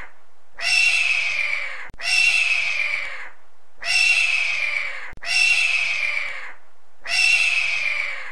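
Eagle screaming: five long, shrill calls, each falling slightly in pitch, the first four in back-to-back pairs.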